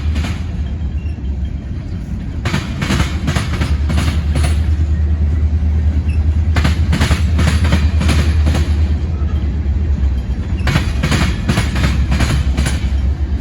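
Long freight train of tank cars rolling past with a steady low rumble. Clusters of sharp clicking come about every four seconds as the wheel sets of each car cross the rail joints.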